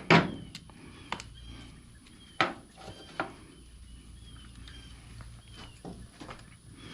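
Scattered sharp clicks and taps of hands handling wiring and small parts on the leaf blower, the loudest just at the start and a couple more about two and a half and three seconds in. Faint short bird chirps repeat in the background.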